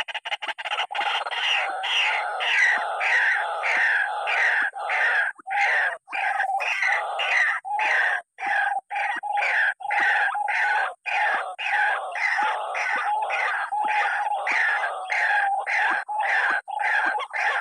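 White-breasted waterhen (ruak-ruak) calling: a loud, harsh, croaking call repeated quickly, about twice a second, over and over.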